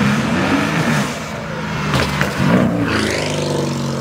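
A sports car's engine revving as it accelerates past, its note rising with the revs and then dropping away as it goes by about three seconds in.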